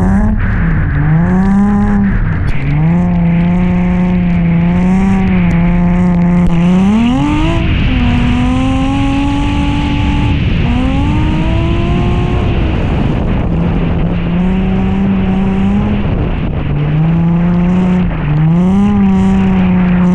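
Nissan 350Z's V6 engine driven hard on track, revving up and down continuously: the pitch climbs, drops back abruptly, settles, then climbs again, with one long rise to its highest note about seven seconds in. A steady hiss of tyre and road noise runs under it.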